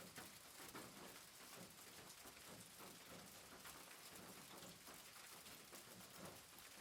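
Near silence: a faint steady hiss with soft scattered ticks.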